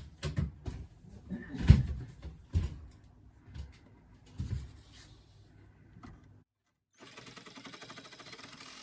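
Old plaster and wood lath being knocked and pried down: a run of irregular knocks and cracks, the loudest about two seconds in. After a short silence, a steady buzzing motor starts near the end.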